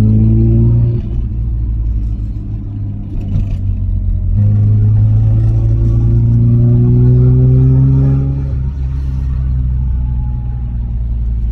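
Mazda RX-7 FD's 13B rotary engine under way, its revs climbing twice, each pull ending in a sudden drop in revs, about a second in and about eight seconds in.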